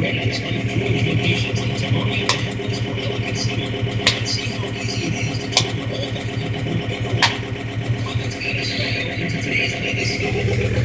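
John Deere 5325 tractor's diesel engine running steadily. Four sharp clicks come through over it, about one and a half to two seconds apart.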